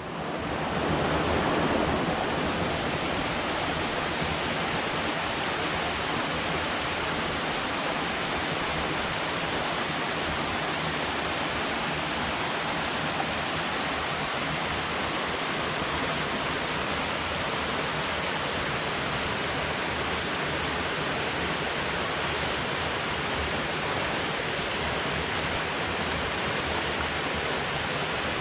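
Steady rush of water below a dam, the river pouring out of the reservoir. It fades in over the first second or so, then holds even throughout.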